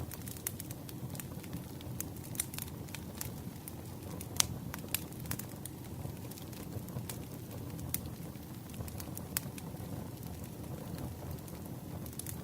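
Campfire burning: a low, steady rumble with sharp crackles and pops scattered irregularly through it, the loudest pop a little over four seconds in.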